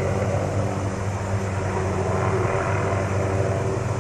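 Helicopter rotor and engine drone, steady and distant, from a tree-trimming helicopter hovering with a saw on a long line hung beneath it.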